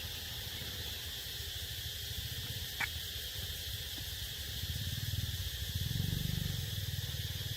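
Steady outdoor background of a high, even hiss over a low rumble, with a single short squeak about three seconds in.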